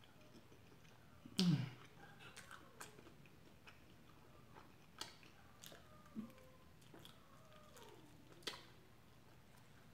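A person chewing and biting chicken wings close to the microphone, with scattered wet mouth clicks and smacks. The loudest bite comes about one and a half seconds in.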